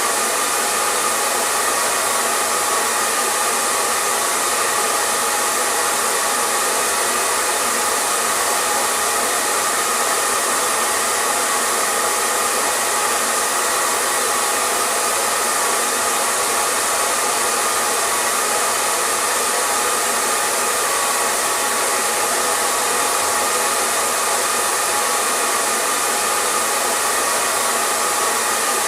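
Hair dryer running continuously, a steady rushing blow of air with a faint motor hum and no change in speed.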